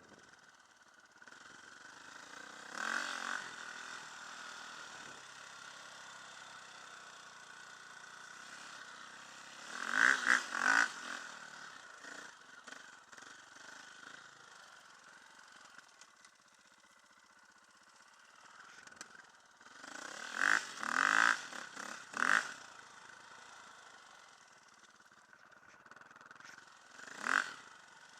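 Enduro dirt bike engine running steadily, revved hard in short bursts four times.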